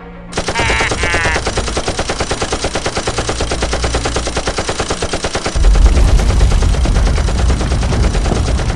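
Rapid machine-gun fire sound effect, about ten shots a second without a break. A deep rumble joins about five and a half seconds in.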